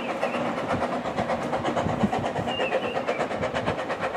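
Talyllyn Railway narrow-gauge carriages rolling past on the track, the wheels clattering in a rapid, even rhythm.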